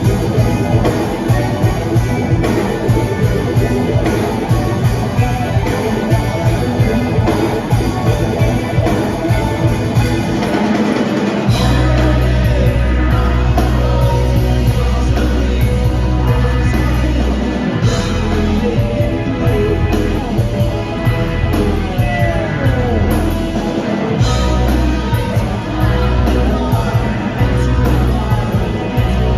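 Live progressive rock band playing loudly, with drums, guitar and heavy bass. About eleven seconds in, the music shifts to long sustained low bass notes, with sliding lead lines above.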